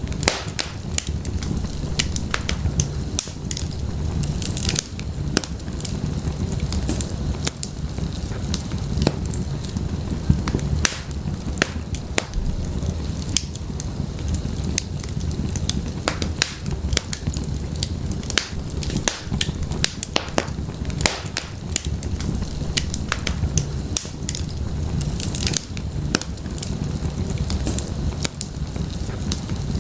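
Wood fire burning in a fireplace: a steady low rumble of flames with many sharp, irregular crackles and pops from the burning firewood.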